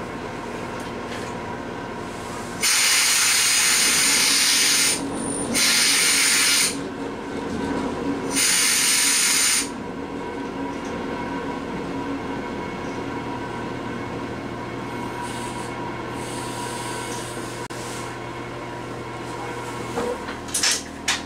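Train cab noise as the train runs along the line, steady throughout. Three loud blasts of hissing compressed air, each one to two seconds long, start and stop abruptly in the first half. A few sharp clicks come near the end.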